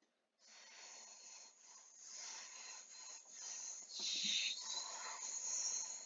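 A rushing hiss from the automatic car wash that starts abruptly about half a second in, swells and is loudest about four seconds in, then fades just after the end.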